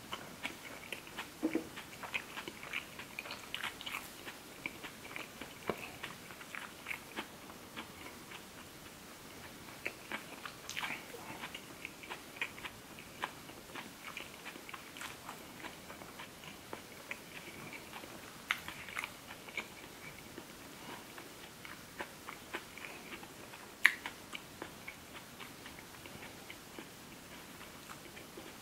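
Close-miked chewing of green onion seafood pancake (pajeon): wet mouth sounds with many small crisp crackles and clicks throughout, and one sharper click a few seconds before the end.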